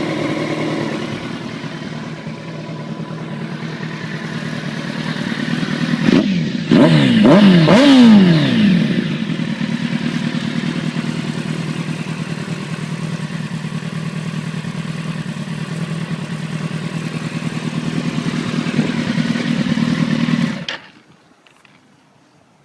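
Motorcycle engine idling, then given several quick throttle blips about six to nine seconds in, the revs sweeping up and falling back each time, before settling back to a steady idle. It cuts off abruptly near the end.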